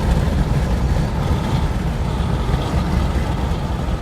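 Steady low rumble of road and wind noise inside a moving vehicle.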